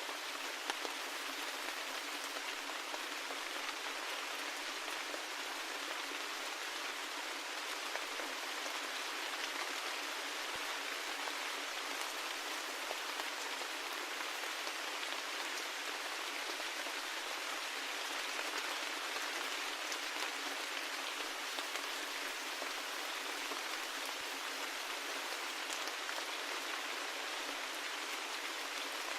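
Steady rain falling: an even hiss with scattered ticks of single drops, and no low rumble.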